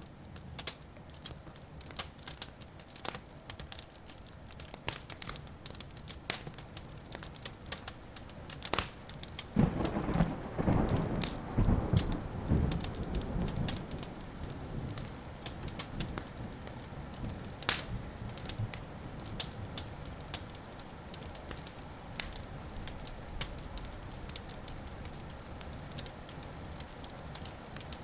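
Wood fire crackling with scattered pops and snaps throughout, and a long rumble of thunder that breaks in about ten seconds in, is loudest for a few seconds, then fades away.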